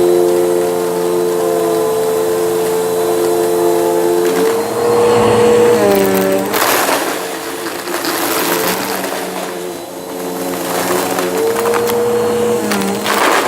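Bissell vacuum cleaner running with a steady motor whine that drops in pitch under load about four seconds in and rises again near the end. Bursts of crackling crunch come from the brushroll picking up debris, mostly in the middle and again near the end.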